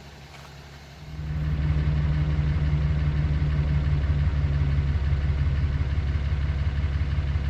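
A vehicle engine running steadily. It comes in abruptly about a second in as a loud, low drone.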